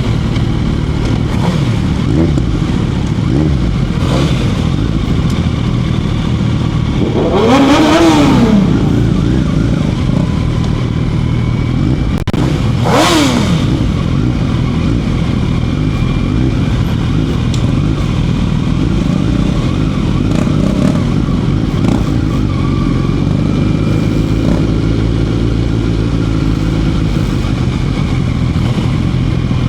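Motorcycle engine running steadily, with two louder passes about eight and thirteen seconds in where an engine's pitch rises and then falls.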